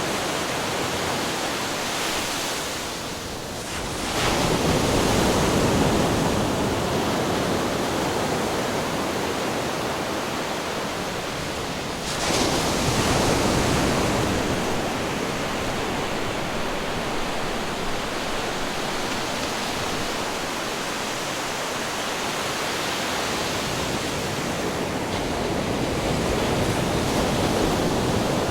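Ocean waves crashing against rocks: a continuous rush of surf with two big surges, one about four seconds in after a brief lull and another about twelve seconds in, each fading over several seconds, then a gentler swell near the end.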